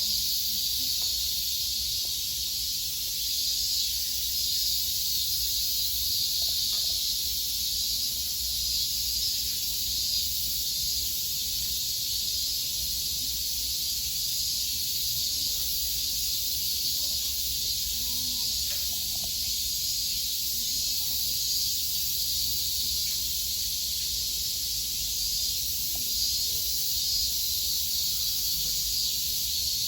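Steady chorus of cicadas, a high-pitched hiss that holds level without a break.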